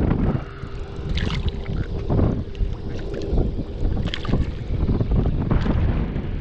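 Gusty wind rumbling on the microphone, with water lapping against a kayak.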